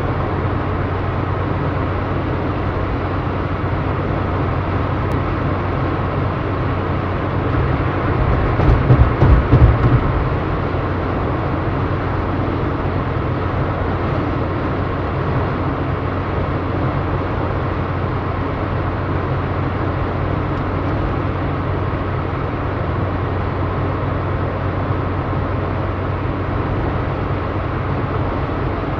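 Truck driving along a road: steady engine drone with road noise. A louder rumbling stretch with several knocks comes about eight to ten seconds in.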